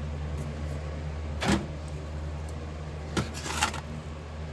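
Three short scrapes, as of tools and metal pieces being handled, about a second and a half in and twice more near three seconds, over a steady low hum.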